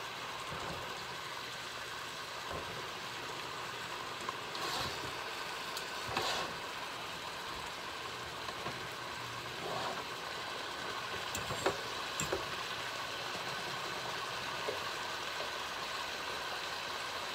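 Chicken pieces frying and searing in a stainless-steel skillet: a steady sizzle, with a few light clicks of a fork against the meat and pan.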